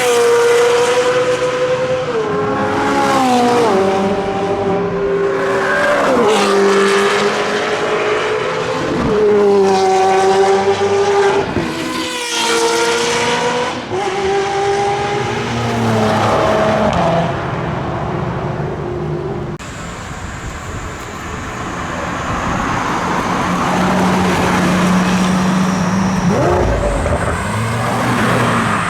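Lamborghini supercar engine revving hard, its pitch climbing and then dropping several times in the first part, like acceleration through gears or blips of the throttle. About two-thirds through the sound switches to a steadier, lower engine note, which rises again near the end.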